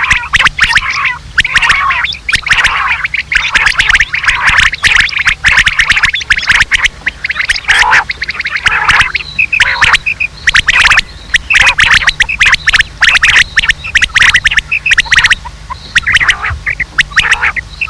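Quail calls from a batair lure recording: many rapid, densely packed calls and chatter, over a steady low hum.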